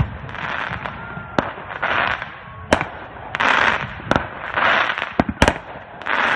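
Aerial fireworks: about five sharp shell bursts, two of them close together about five seconds in, with crackling, hissing showers of glitter stars between the bangs.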